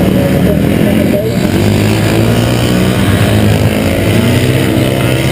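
A loud engine running steadily, its pitch shifting up and down a little as the throttle changes.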